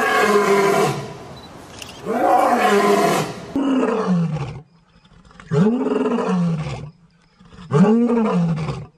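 An animal giving a series of about four drawn-out calls, each rising and then falling in pitch, with short pauses between them.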